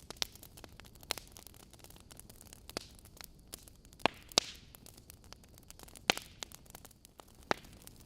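Wood logs burning in a fireplace, crackling: sharp, irregular pops over a faint hiss, with the loudest pops about halfway through.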